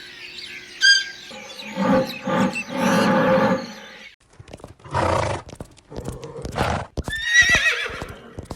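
Horse neighing several times: a short high call, rough lower calls, and a high wavering whinny near the end.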